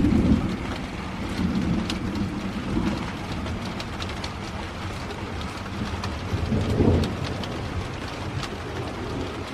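Rain falling steadily with scattered drops tapping, under rolling thunder that rumbles loudest at the start and swells again about seven seconds in.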